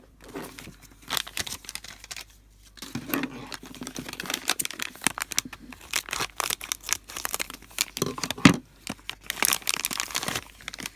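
Foil blind bag being torn open and crinkled by hand, a dense irregular run of rustling and crackling, with one sharper knock about eight and a half seconds in.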